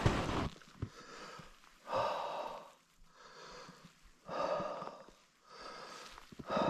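A person breathing heavily close to the microphone, a louder breath about every two and a half seconds with fainter ones between. A few footsteps crunch at the very start.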